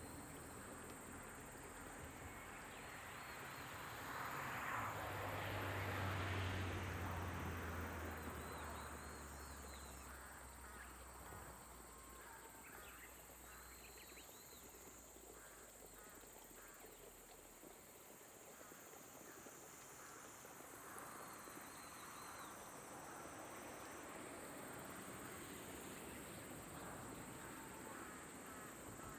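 Rice-paddy ambience: insects trilling steadily, with birds chirping now and then and frogs calling in repeated runs over a soft rain hiss. A low rumbling rush swells and fades about a fifth of the way in.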